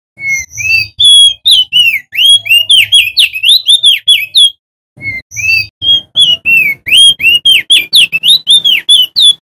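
Male opior jambul (crested white-eye) singing loudly in two rapid bursts of quick, sweeping whistled chirps, with a brief pause about halfway through.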